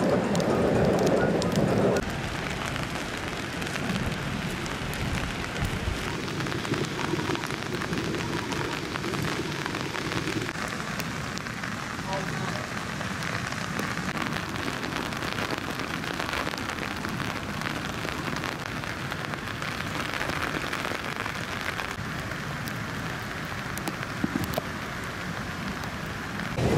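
Steady rainfall: an even hiss flecked with many fine drop ticks, a little louder in the first two seconds.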